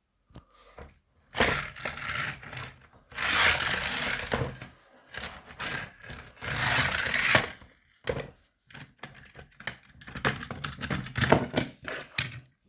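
Small toy train engines, push-along models among them, being run along toy track: bursts of clattering and clicking from the wheels and plastic bodies, broken by short pauses.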